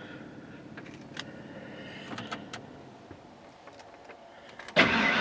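A few faint clicks, then near the end the truck's starter cranks the engine on a cold start after two months of sitting over winter, and it quickly catches.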